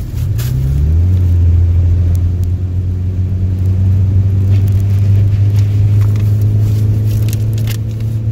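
A motor vehicle's engine drones loudly and steadily, heard from inside a car's cabin. Its pitch rises during the first second, then holds steady.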